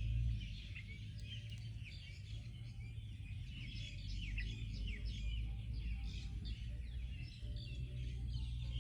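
Many small birds chirping at once, a rapid, dense chatter of short falling chirps, over a steady low rumble.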